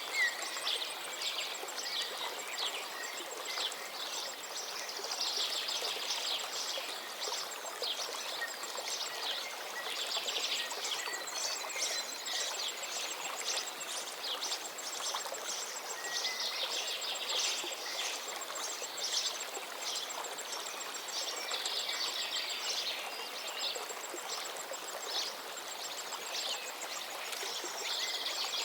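Many songbirds chirping and trilling over the steady rushing of a stream.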